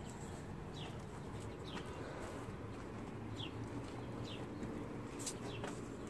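Birds chirping outdoors: short, high, downward-slurred chirps roughly once a second, over a faint steady low hum.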